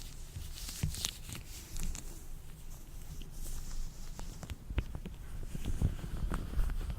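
Latex-gloved hands being rubbed and handled close to the microphone: irregular rustling with scattered small clicks and soft low thumps.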